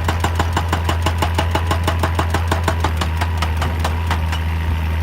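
Excavator-mounted hydraulic breaker hammering rock in a fast, even rhythm of about five or six blows a second over the diesel engine's steady drone; the hammering stops about four seconds in while the engine keeps running.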